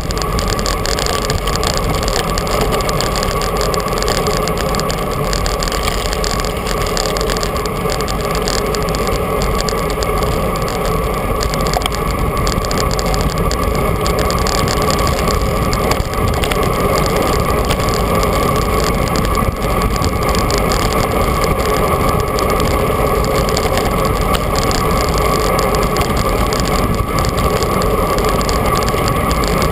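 Steady rush of wind and tyre noise on a camera mounted on a moving bicycle, with a faint constant hum running under it.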